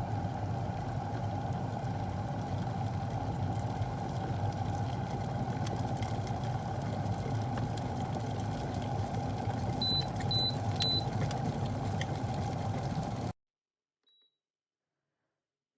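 Electric glass kettle heating water with a steady rumble, then three short high beeps about ten seconds in, the signal that it has reached its set temperature. The rumble cuts off abruptly a few seconds later.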